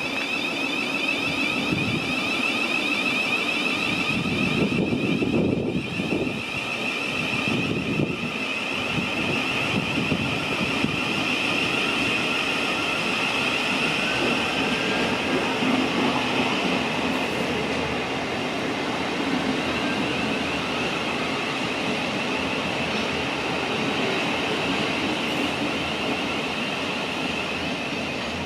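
Electric passenger train running through the station, a steady rumble of wheels on rail with a continuous high whine over it.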